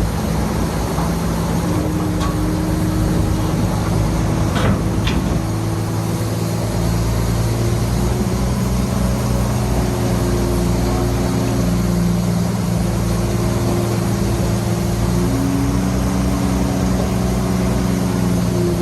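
Heavy diesel engine of earthmoving machinery running steadily under load, its pitch shifting slightly near the end, with two short clacks about five seconds in.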